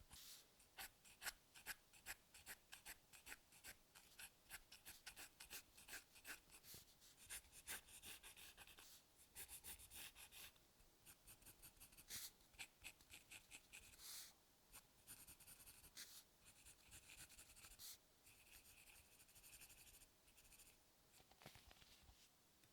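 Soft scratching of a drawing tool on paper: a fast run of short strokes, with longer stretches of continuous scratching, as in shading, partway through and again near the end.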